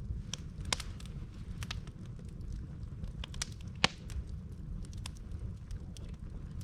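Wood campfire burning, crackling with scattered sharp pops, the loudest about four seconds in, over a low steady rumble.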